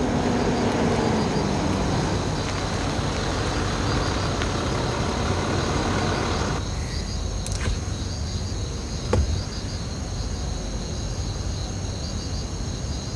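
Large SUV driving slowly, a steady engine-and-tyre hum, with crickets chirping steadily; the hum thins about halfway through, leaving the insects more prominent, with a couple of faint clicks.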